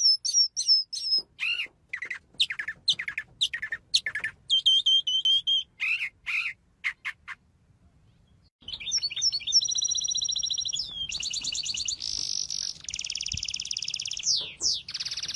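Birds calling: a run of separate high chirps and whistled notes, a brief pause about eight seconds in, then long, fast trills.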